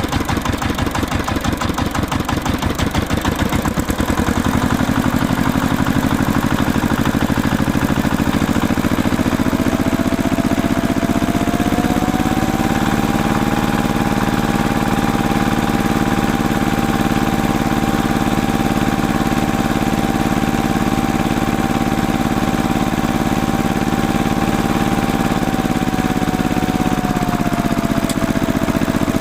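An engine running, with a fast even chugging pulse for the first few seconds before it settles into a steadier sound. Its pitch rises about ten seconds in, holds, and drops back near the end, like a mild rev.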